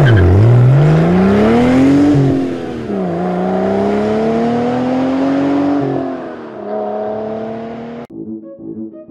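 Car engine accelerating: its pitch climbs for a couple of seconds, drops sharply, climbs again for about three seconds, then settles lower. It cuts off suddenly about eight seconds in, and music starts.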